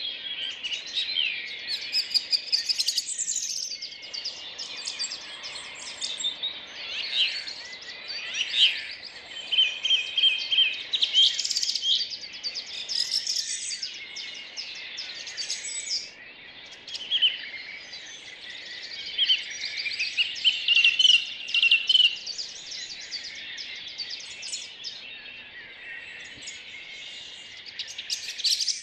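Early-morning dawn chorus: several songbirds singing at once, with overlapping whistled phrases, trills and chirps following one another without pause.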